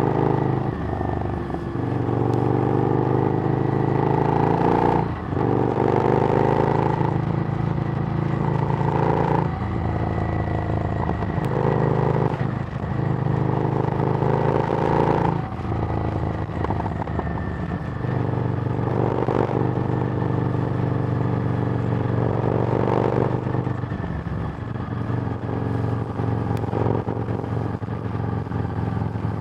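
Harley-Davidson Street Rod's V-twin running through a Screamin' Eagle exhaust while being ridden. It rises in pitch under throttle over stretches of a few seconds, with brief drops in between.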